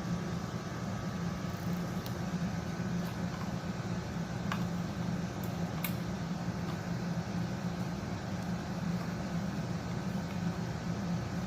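Steady low mechanical hum, with a couple of faint clicks around the middle.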